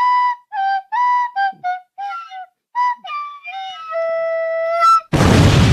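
A short flute melody of about a dozen quick notes, ending on a longer held note that lifts in pitch. Near the end it is cut off by a sudden loud blast of noise, like an explosion sound effect.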